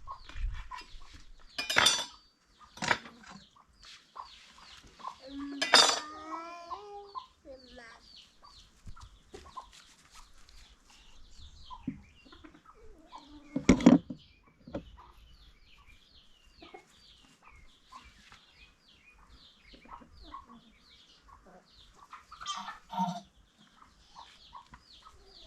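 Chickens clucking and calling around a yard, with many small high calls throughout. Three loud sharp knocks come about 2, 6 and 14 seconds in.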